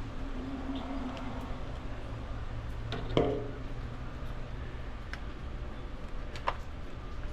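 A single metallic clank with a short ring about three seconds in, then a few faint light clicks, over a steady low rumble.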